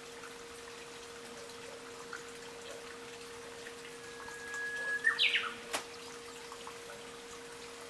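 Japanese bush warbler (uguisu) singing one song phrase about halfway through: a long, steady whistle followed by a quick flourish that sweeps higher, the 'hoo-hokekyo' call. A faint trickle of water runs underneath.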